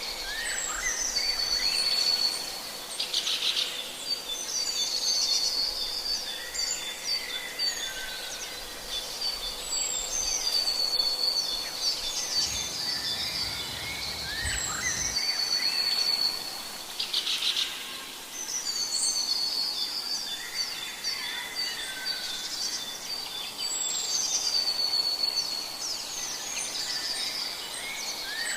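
Birds singing. The same phrase of quick chirps ending in a held high whistled note comes back every few seconds, with other chirps around it.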